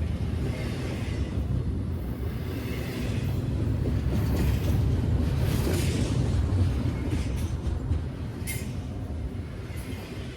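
Train rolling by on the tracks, a steady low rumble of wheels on rail, with one short sharp click about eight and a half seconds in.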